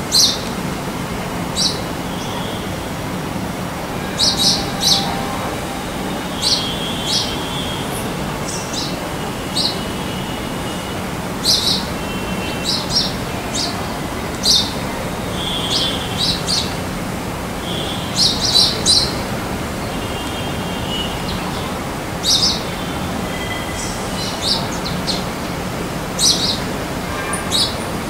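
Small birds chirping: short, sharp, high chirps scattered irregularly, sometimes two or three in quick succession, over a steady background hiss.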